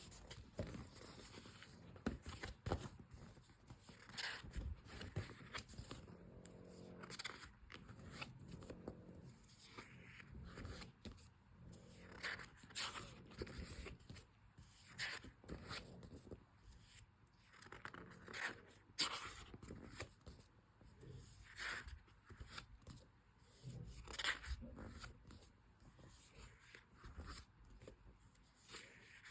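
Paper and sticker sheets being handled close up: quiet, irregular rustling, scraping and crinkling, with scattered light taps.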